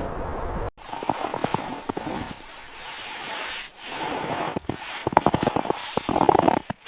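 Irregular sharp crackling and snapping over a rushing hiss, broken by sudden cut-offs about a second in and near the end.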